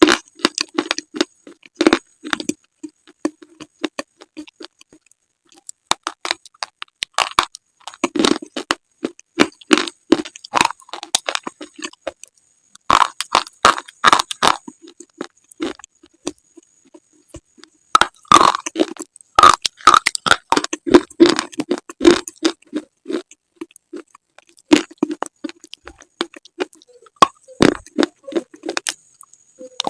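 Close-up biting and chewing of slate: irregular sharp cracks and crunches in clusters, with short pauses between bites.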